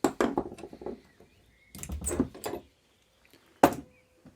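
Clusters of short metallic clicks and knocks from a wrench working the anti-roll bar end nut tight over the squeezed new bushes, with one loud sharp knock about three and a half seconds in.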